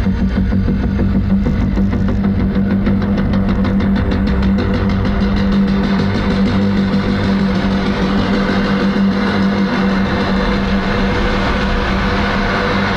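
Car engine running steadily while driving, with a constant low hum.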